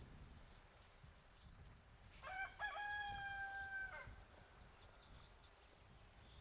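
A rooster crows once, starting about two seconds in, one call of about two seconds that falls away at the end. Just before it, a small bird sings a quick high trill.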